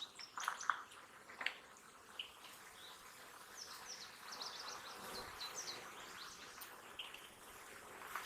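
Faint buzzing of honeybees from an open, busy hive, with birds chirping in the background and a few light clicks near the start.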